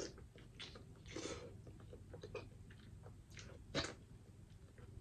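Close-miked chewing and mouth sounds of someone eating seafood, with scattered wet clicks and small smacks and a louder click about four seconds in.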